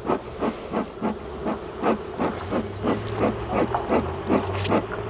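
Bee smoker bellows pumped in quick, even puffs, about three a second, each a short hiss of air and smoke, to drive honeybees off the edge of the hive box. Under it is the steady hum of the bees.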